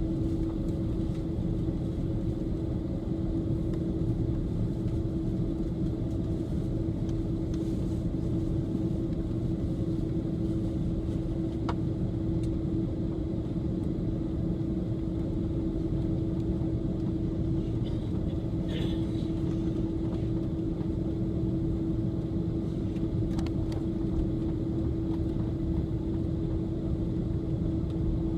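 Airbus A330 cabin noise: a steady drone of the engines and airflow, with a constant low hum that holds one pitch.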